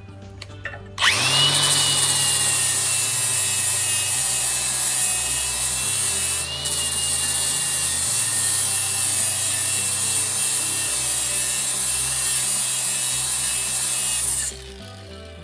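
Power grinder shaving down the edge of a steel body panel to make it fit: a steady, loud grinding with a high whine that starts sharply about a second in and stops near the end.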